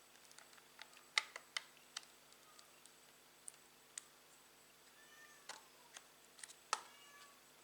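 Scattered light clicks and taps from handling a laptop's plastic case and small parts, the loudest about a second in and near the end, with a few faint sliding squeaks about five and seven seconds in.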